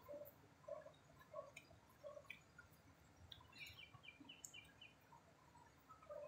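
Faint bird calls: a low note repeated about every two-thirds of a second, then a quick run of higher chirps, over a low background hum.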